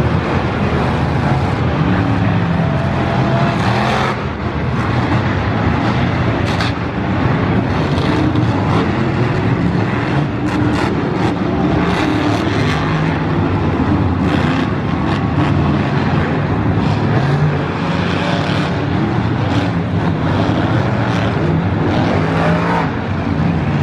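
Monster truck engines, supercharged V8s, running loudly and revving, the pitch rising and falling again and again, with a few sharp pops along the way.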